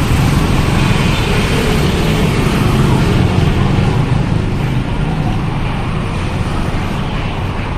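Steady road traffic noise: motor vehicles running close by, with a continuous low engine rumble.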